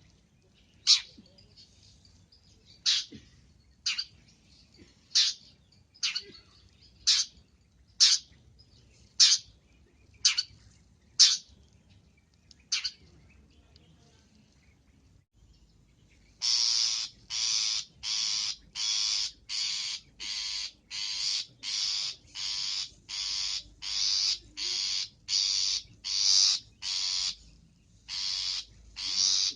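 Songbird calls from a masteran training track for the long-tailed shrike (cendet): sharp single high chirps about once a second, then after a pause of a few seconds a fast series of longer, fuller notes about two a second.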